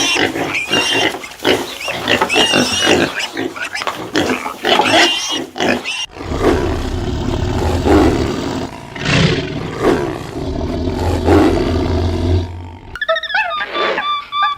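Animal calls from several animals in turn. Pitched calls come first, then deep, rumbling growls from about six seconds in, then high whining calls near the end.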